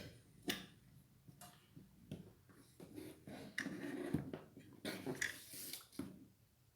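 Scattered light clicks and knocks of small ceiling-fan light-fixture parts being handled and fitted together, with a few brief rustles.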